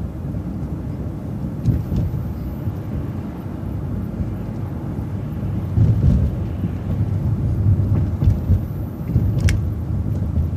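City transit bus driving, its engine and road rumble steady and deep, swelling somewhat partway through, with a couple of sharp clicks or rattles.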